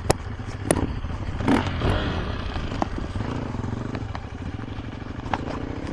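Dirt bike's single-cylinder four-stroke engine, a KTM 350 EXC-F, running at fairly steady low revs with small rises and falls, with several sharp clicks and knocks over it.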